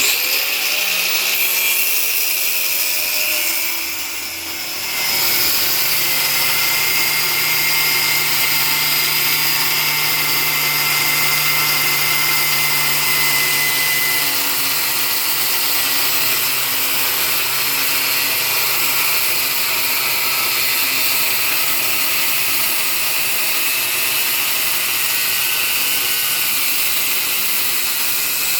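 Homemade mini chop saw running and cutting into metal, its small cutting disc giving a steady high-pitched whine and hiss, with a brief dip in level about four seconds in.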